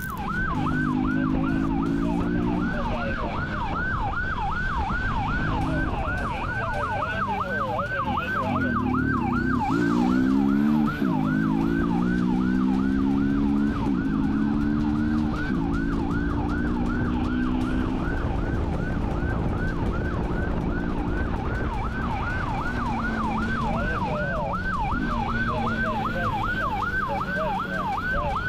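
Police siren wailing in a fast, continuous yelp, its pitch sweeping up and down two to three times a second. Underneath, a lower steady drone comes and goes, rising and falling briefly about ten seconds in.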